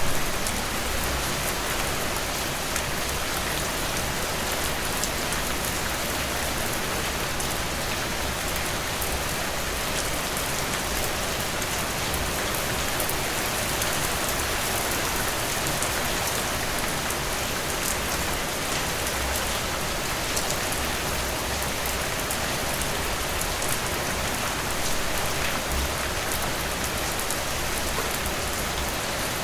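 Heavy rain falling steadily on surfaces, a dense downpour with fine drop ticks in the highs.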